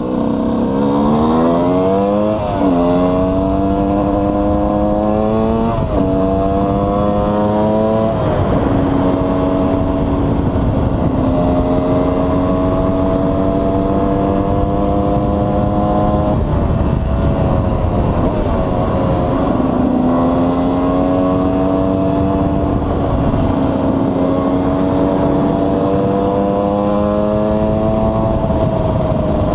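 KTM 125 EXC's single-cylinder two-stroke engine under way on the road, revs climbing and dropping sharply three times in quick succession as it shifts up through the gears. It then holds a fairly steady note, falls off about halfway through and builds again slowly, with wind noise throughout.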